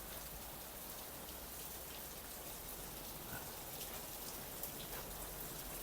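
Steady light rain falling, with single drops ticking now and then.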